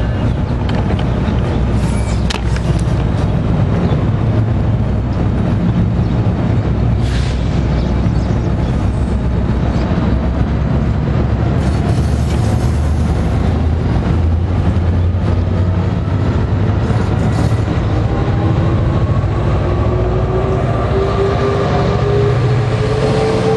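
Commuter diesel locomotive and train running close by: a steady, loud, low engine rumble with scattered clicks. A rising whine comes in during the last few seconds.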